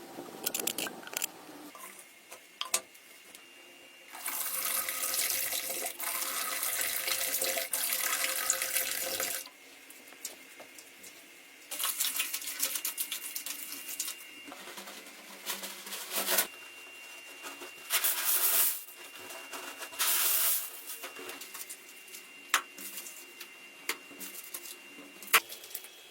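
Water running or pouring in several spells, the longest about five seconds, with scattered clicks and knocks between them.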